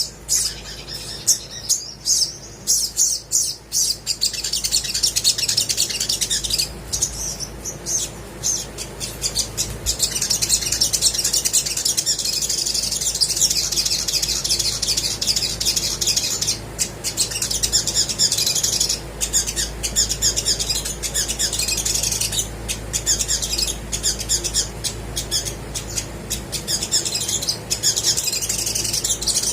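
Olive-backed sunbird singing. It opens with a run of sharp, high chips for the first few seconds, then breaks into a fast, continuous, high-pitched twittering song with short breaks.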